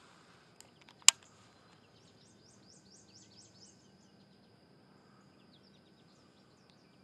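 A bird sings a quick run of about eight down-slurred high notes, over a steady thin high insect drone. About a second in there is a single sharp click, the loudest sound.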